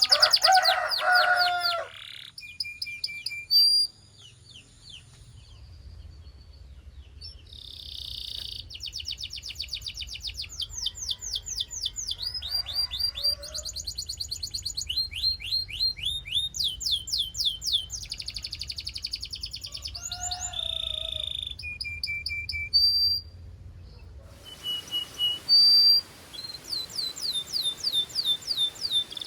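Domestic canaries singing: fast trills of rapidly repeated high sweeping notes, broken by short pauses, with a few lower notes mixed in. A steady background hiss comes in near the end.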